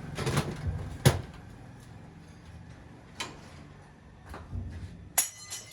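A single sharp knock about a second in, with a short rattling clatter near the end and a few fainter knocks between.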